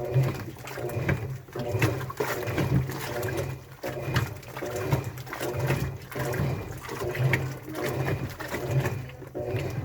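Washing machine running a cycle, with a low motor hum and a regular rhythm of pulses about every two-thirds of a second as the drum turns.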